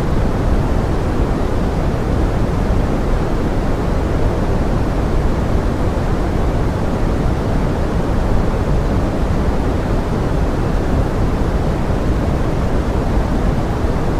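Steady pink noise meant as forest rain: an even, unbroken rushing hiss, weighted toward the low end, with no separate drops or other events standing out.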